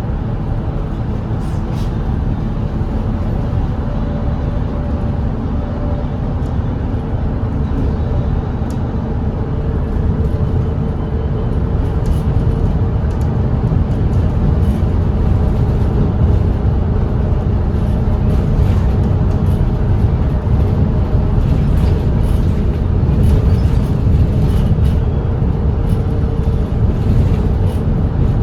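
Volvo B8RLE double-decker diesel bus's six-cylinder engine running steadily at expressway speed, a low drone mixed with road rumble, getting somewhat louder from about ten seconds in.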